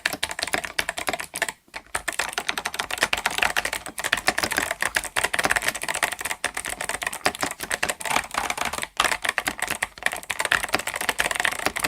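Rapid typing on the 8BitDo Retro Mechanical Keyboard M Edition with its Kailh Box White V2 switches: a fast, continuous run of key clicks with a few brief pauses.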